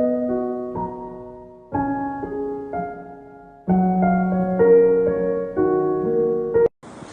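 Slow, gentle piano music: chords and single notes struck a few at a time and left to fade, with louder chords about two and four seconds in. It stops abruptly near the end.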